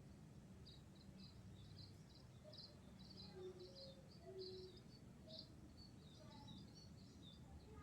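Faint, quick high chirps from small birds, many in a row, over a low steady rumble, with a few softer lower notes in the middle.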